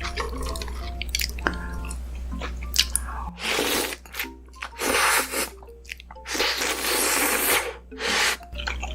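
Ramen noodles being eaten close to the microphone: small wet chewing clicks, then four long, loud slurps in the second half. Soft background music plays under it.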